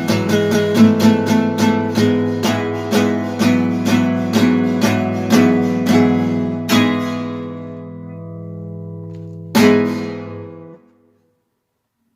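Acoustic guitar strumming chords in a steady rhythm, then a chord left to ring out and one final strummed chord that fades away to silence, ending the song.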